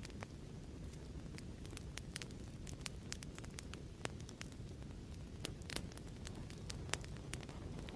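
Fireplace crackling steadily: a low, even rumble of burning with frequent sharp pops and snaps scattered irregularly throughout.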